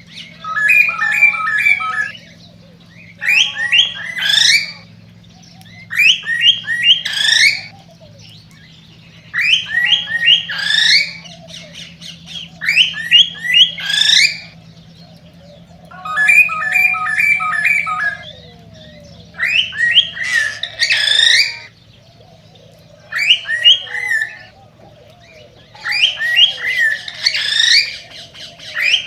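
Male cockatiel singing its courtship song, which the uploader describes as the excited song of a male ready to mate. It sings short phrases of quick repeated chirps and rising whistles, about one phrase every three seconds.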